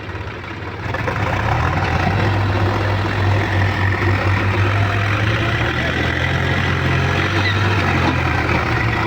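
Heavy diesel engine running steadily under load, getting louder about a second in.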